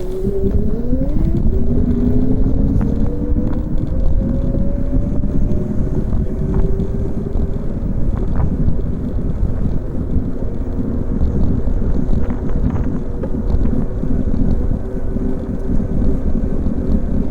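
Wind rushing over an action camera's microphone as a bicycle speeds down a hill, a steady low rumble. A hum rises in pitch over the first few seconds as the bike gathers speed, then levels off.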